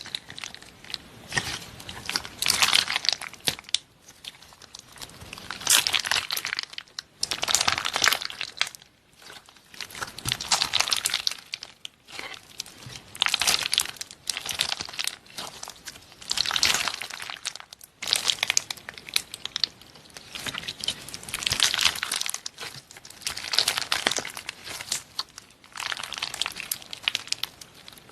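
Repeated bursts of crinkling and crunching, each a second or two long, coming every two to three seconds with short quiet gaps between.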